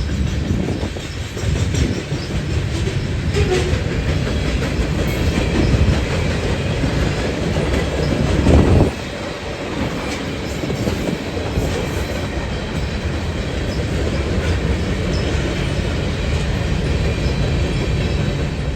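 Train cars rolling past, a steady loud rumble of wheels on rails with clickety-clack over the rail joints and a brief louder surge about halfway through.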